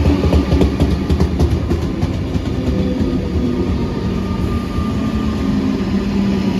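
Comeng electric suburban train arriving at the platform: a loud steady rumble with a run of wheel clicks over the rail joints in the first couple of seconds and a low hum from the train.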